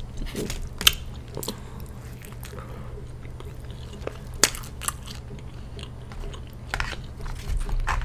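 Close-miked chewing and biting of food, with scattered sharp crunches and wet mouth clicks over a steady low hum.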